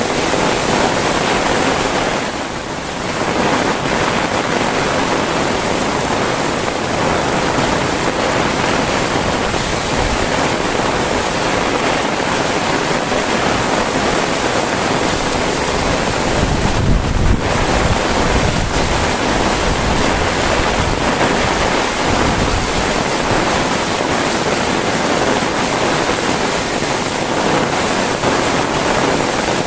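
Heavy rain falling steadily as a dense, even hiss, with a brief low rumble about seventeen seconds in.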